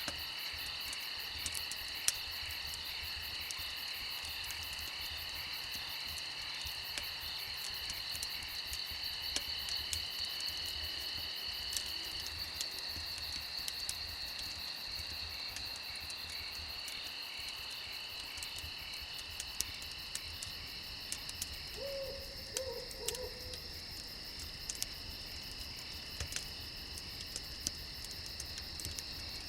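A steady chorus of crickets trilling, with scattered sharp crackles and pops from a wood fire. About 22 seconds in, a brief low call sounds twice.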